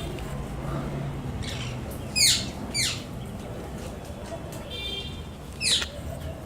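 Birds calling: a few sharp, short calls that sweep steeply down in pitch, the loudest about two seconds in and another near the end, with a softer buzzy note between them.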